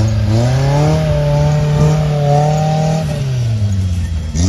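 A small 4x4's engine revving hard while it drives through mud. The pitch climbs in the first second and holds high, sags near the end, then climbs sharply again just before the end.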